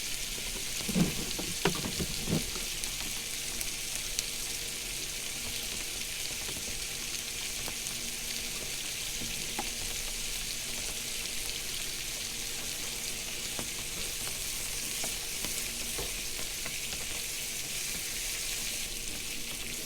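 Polish sausage, onions and green peppers sizzling steadily in a frying pan, with a few short knocks about one to two seconds in.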